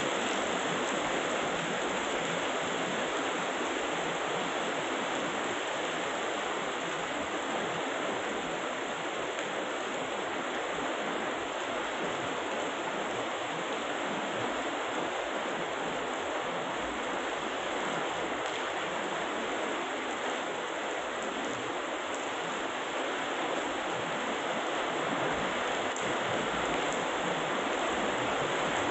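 Heavy rain falling steadily, an even rushing hiss with no thunder heard.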